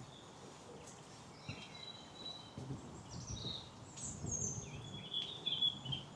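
Songbirds singing short, high, warbling phrases, starting about a second and a half in and getting busier near the end, over soft footfalls on a path.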